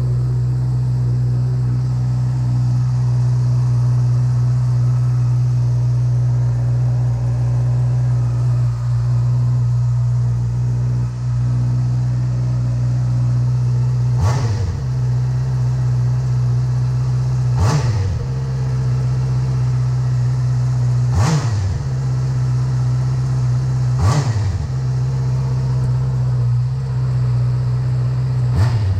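2019 Honda CBR650R's inline-four engine through its stock exhaust, idling steadily, then revved in five quick throttle blips from about halfway on, each rising sharply and falling straight back to idle.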